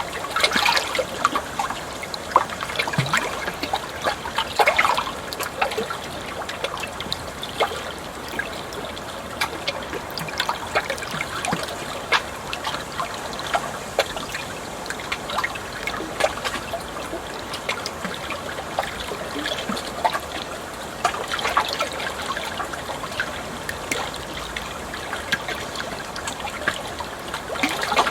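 Water trickling and splashing in a steady flow, with many small irregular splashes and drips over it.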